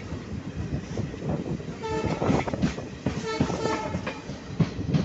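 DEMU train running, its wheels rumbling on the track, heard from aboard. The horn sounds twice, briefly, about two and three seconds in.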